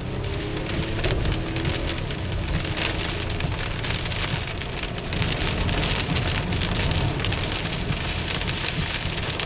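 Heavy rain pelting a car's roof and windshield, heard from inside the cabin, as the car drives through deep standing floodwater with its tyres throwing up spray.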